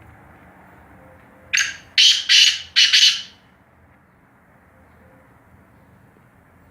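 Black francolin calling: one phrase of four loud, harsh notes in quick succession, a short first note followed by three longer ones, about a second and a half in.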